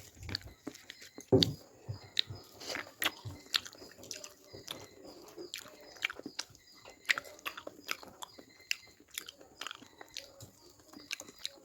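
Close-up eating of fish: irregular crunching bites and chewing, with a sharper crunch about a second and a half in.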